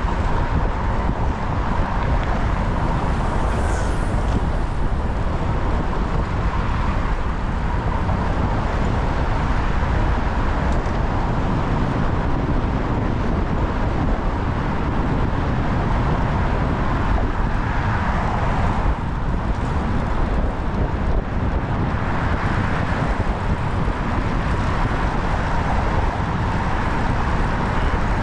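Steady rush of wind and road noise on a GoPro microphone while cycling through city traffic, with passing cars and traffic underneath.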